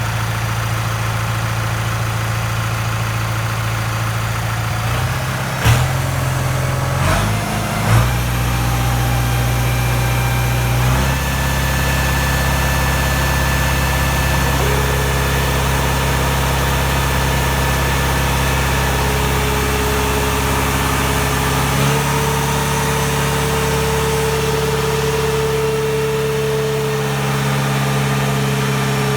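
New Holland TS90 tractor's diesel engine running on a PTO dynamometer. Its speed and load change several times in the first ten seconds or so, with two sharp knocks. It then pulls steadily under load, shifting once more about two-thirds of the way through.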